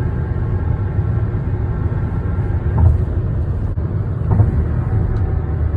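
Steady low tyre rumble of a car at highway speed, with two brief thumps about a second and a half apart as the tyres cross bridge expansion joints.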